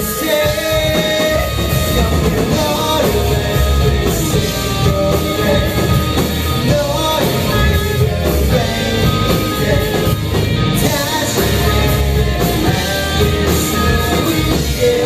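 Rock band playing live: a singer's voice over electric guitar and drum kit.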